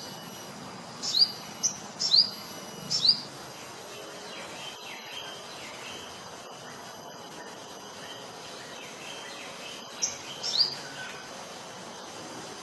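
Sogon bird calling: short, sharp whistled notes that slide quickly in pitch. There is a quick run of five in the first three seconds and three more about ten seconds in, with softer notes between, over a steady background hiss.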